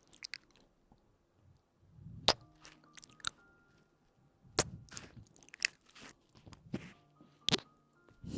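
Close-miked ASMR clicks and crackles, a handful of sharp separate clicks with short crunchy stretches between them, like mouth sounds or chewing right at the microphone.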